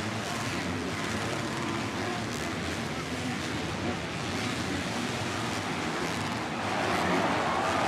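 Motocross dirt bikes racing on track: a steady, noisy engine din that gets a little louder about seven seconds in.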